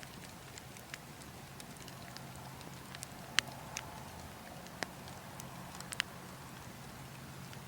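Burning wood logs crackling with scattered sharp pops, a handful of louder snaps in the middle, over a steady low rush of wind.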